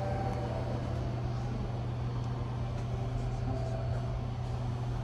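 Steady low hum of the Sunrise Seto sleeper train heard inside a closed compartment, with a few faint ticks.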